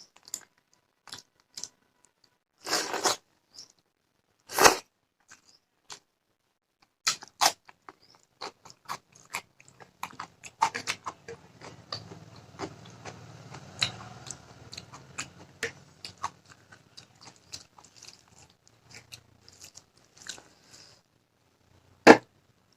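Close-up eating sounds: chewing and crunching bites of food, with many short mouth clicks and several louder crunches.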